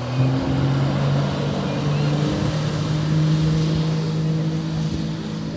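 Speedboat's outboard motor running under way. Its note steps up in pitch in the first half second, then holds steady over a rushing hiss.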